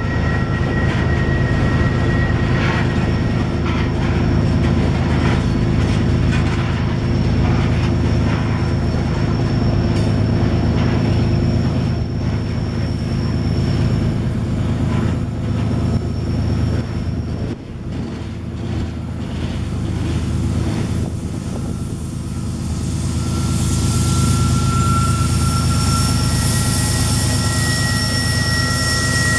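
Heavy freight train climbing a steep mountain grade: a steady low rumble of locomotives and rolling cars, with high wheel-squeal tones that come and go.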